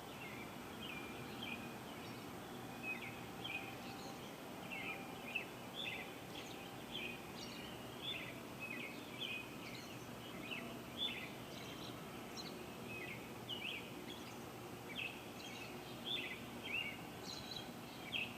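Small birds chirping in short, repeated calls scattered throughout, over a steady outdoor background hiss.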